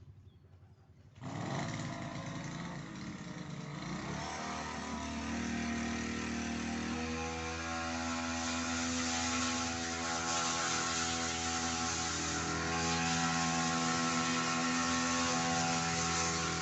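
Grass cutter's small engine comes in suddenly about a second in, runs unevenly at low speed, then picks up over a few seconds to a steady high-speed drone.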